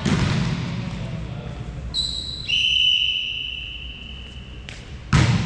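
Referee's whistle blown in one long, steady blast of about two and a half seconds, which drops in pitch just after it starts. Near the end comes a loud, sharp thump.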